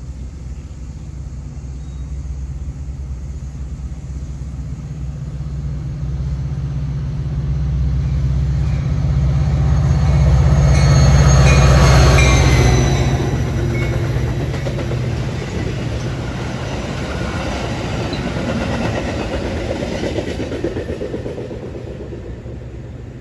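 Metra commuter train passing: a deep diesel locomotive rumble builds and peaks about halfway through, then drops away as the cars roll by with wheel-on-rail noise and faint squeals, fading near the end.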